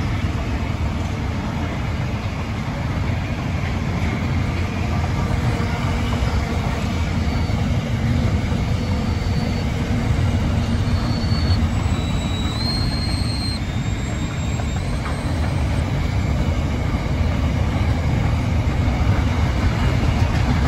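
Double-stacked container wagons of a freight train rolling steadily past, a continuous deep rumble of wheels on rail. Faint high-pitched squealing tones come and go around the middle.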